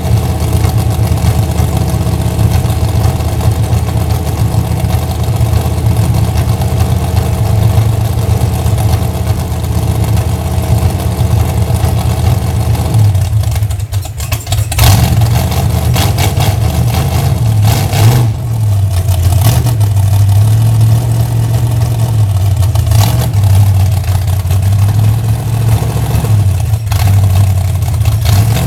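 Chevy Nova's engine running loud and steady at idle. After a short dip about halfway through, it is revved up and down in repeated blips.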